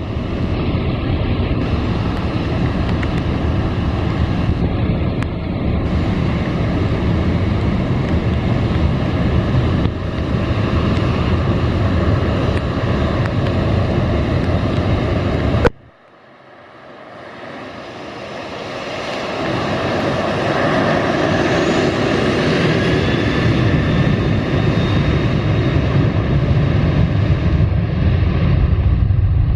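Airliner engines with a steady loud rumble and rushing noise. About halfway through the sound cuts off abruptly, then builds back up over several seconds with a rising whine, as for engines spooling up for takeoff.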